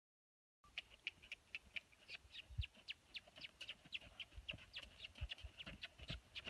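Birds chirping in quick short notes, several a second, with a few low thumps among them. The first half-second is silent.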